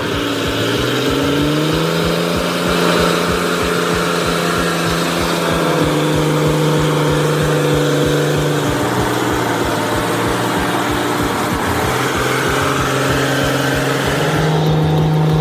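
Heavy truck diesel engine pulling under load. Its note rises over the first couple of seconds, holds steady, drops about nine seconds in and climbs again near the end, as with revs and gear changes.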